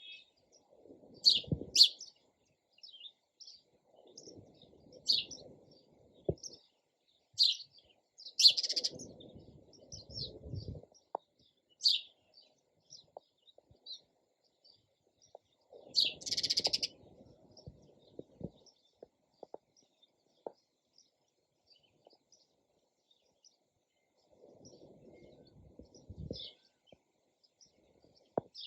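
Sparrows chirping in short, scattered bursts of high chirps. Underneath them come several separate bursts of low noise, each lasting a second or two.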